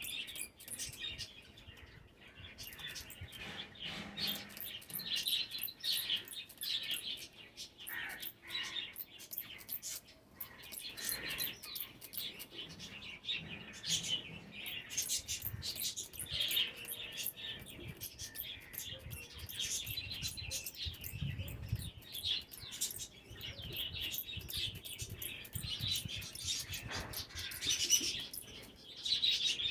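Small pet birds chirping in quick, overlapping short notes throughout.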